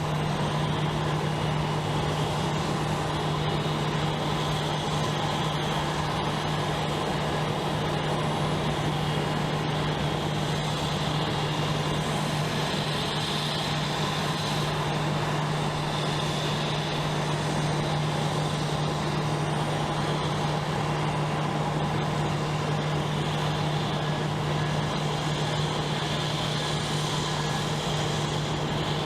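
Steady jet aircraft engine noise: a constant low hum with a hiss over it, holding level without rising or falling.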